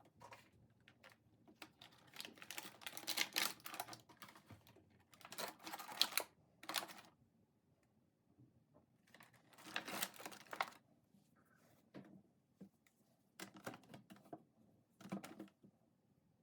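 Several bursts of rapid, close-up clicking and rustling from small objects being handled, with short quiet gaps between them.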